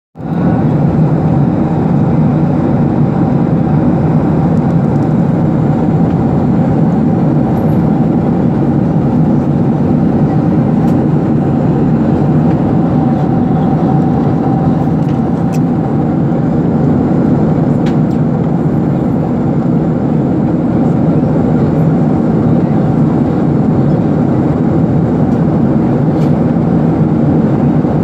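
Steady engine and air noise of a passenger jet heard from inside the cabin, a constant low rumble with no change in level.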